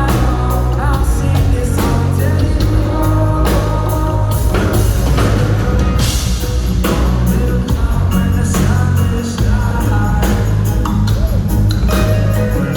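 A live reggae band playing, with heavy sustained bass, a steady drum beat and singing.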